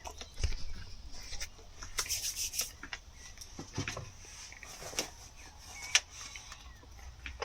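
Quiet, scattered handling sounds: light rubbing and a few clicks and knocks, with a short hissy rustle about two seconds in.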